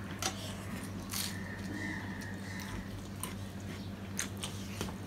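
Close-up eating sounds of people chewing rice and mashed fish eaten by hand: wet mouth smacks and sharp clicks every second or so, over a steady low hum.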